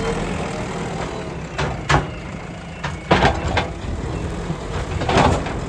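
A JCB backhoe loader's diesel engine running steadily, with several loud knocks and crunches, about four in all, as the machine works through earth and debris.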